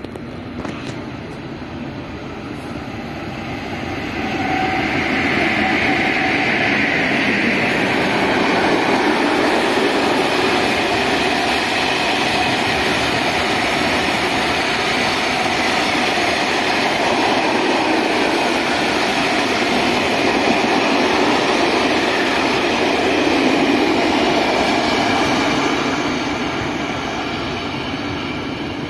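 Freight train passing: a steady noise of wagons on the rails that swells about four seconds in, holds, and eases off near the end.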